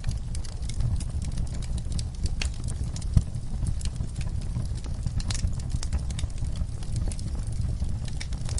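Wood fire burning in a fireplace: a steady low rumble with irregular crackling and snapping, and one louder pop about three seconds in.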